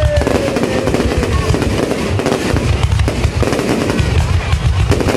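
Fireworks going off in a dense, continuous barrage of crackling and popping over a deep rumble of booms. A whistle falls in pitch during the first second or so.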